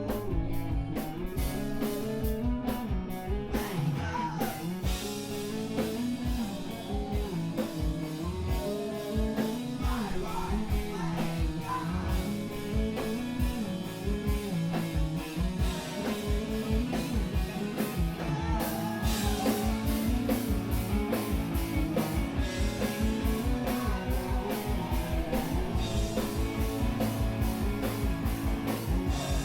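Live emo/screamo band playing: guitars and a drum kit, with a voice singing at times. About two-thirds of the way through, the drums pick up into a fast, steady beat.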